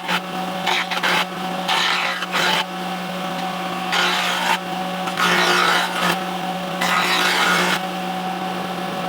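Electric power tool motor running steadily with a hum, with repeated rasping bursts of about half a second to a second each as it cuts or abrades wood.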